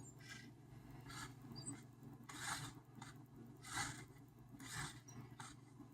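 Anki Vector home robot's small motors whirring in short bursts as it drives and moves about, about seven bursts, the strongest near the middle.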